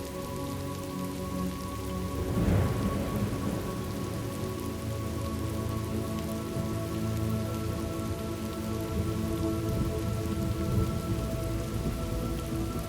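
Thunderstorm ambience: steady rain with a roll of thunder breaking about two and a half seconds in and fading away, over faint steady held tones.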